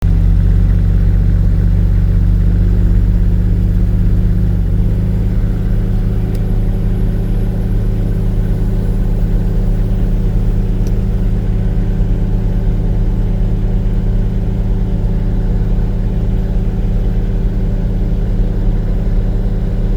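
Car engine running with a steady low drone, its pitch shifting slightly about five seconds in.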